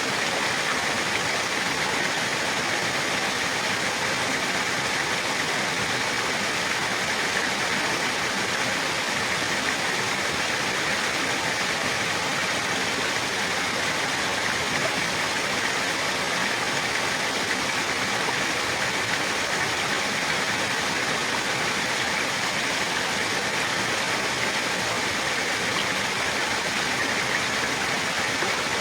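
Water rushing steadily and evenly, like a stream or small waterfall, with no change throughout.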